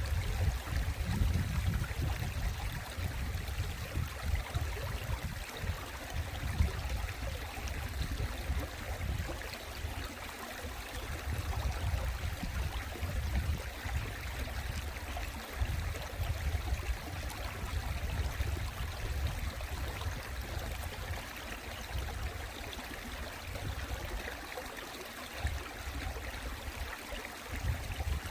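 Mountain stream water flowing and trickling steadily, with a low rumble underneath that swells and fades.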